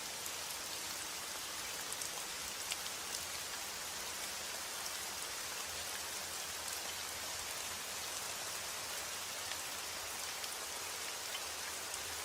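Steady rain: an even hiss with scattered single drops ticking on a surface.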